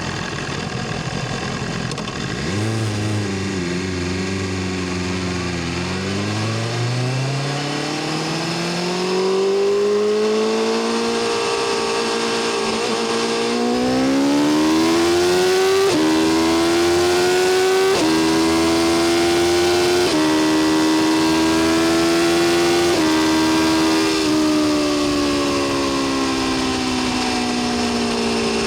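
BMW S1000RR's inline-four engine and exhaust under way, accelerating with rising pitch and shifting through several gears about two seconds apart around the middle, then easing off with the pitch slowly falling near the end.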